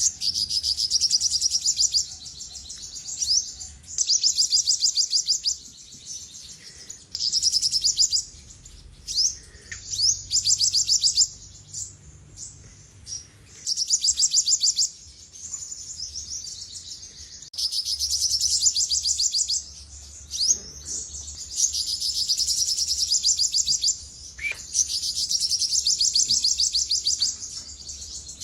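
Olive-backed sunbird singing: high, fast trills of rapidly repeated notes, in bursts of one to two seconds with short pauses between them.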